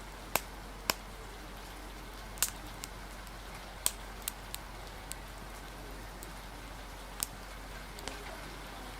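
Steady rain hiss, with the sharp, irregular pops and crackles of a wood fire breaking through it, about ten in all, five of them louder.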